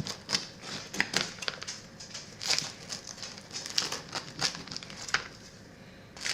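Irregular crinkling and crackling handling noise with scattered sharp clicks, quieter near the end.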